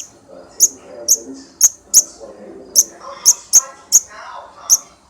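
Fledgling bird's begging calls: short, sharp, high-pitched chirps repeated about twice a second, the sign of a young bird asking to be fed.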